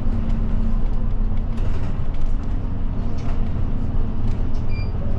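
Route bus engine and road noise heard inside the cabin while driving, a steady low rumble, with a short high beep near the end.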